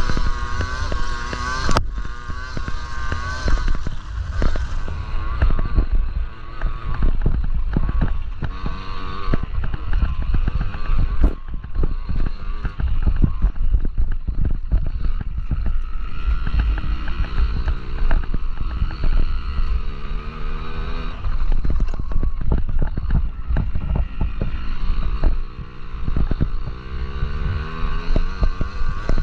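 Small two-stroke engines of Yamaha PW50 mini dirt bikes revving up and down repeatedly as they race, over a heavy low rumble of wind on the microphone.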